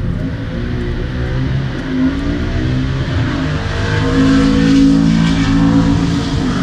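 Drag car's engine running hard under acceleration, heard from beneath the car close to the exhaust outlets; the pitch climbs, dips briefly about two seconds in, then holds high and loud.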